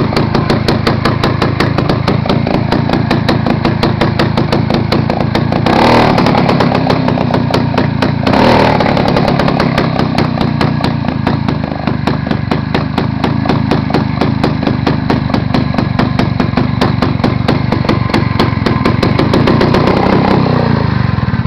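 Small Tecumseh race engine on a vintage mini bike running steadily with an even, rapid firing beat, briefly louder twice about a third of the way in.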